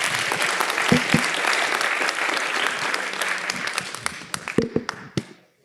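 Audience applauding at the end of a talk, a dense spread of hand claps that tails off and stops near the end.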